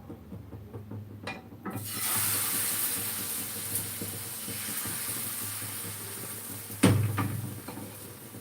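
Water running from a kitchen tap, turned on about two seconds in, with one sharp knock, the loudest sound, near the end.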